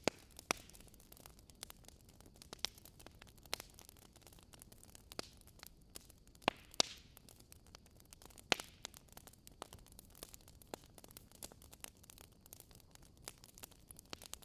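Wood fire crackling in a fireplace: steady low hiss with frequent small irregular crackles and a few sharper pops, the loudest around the middle.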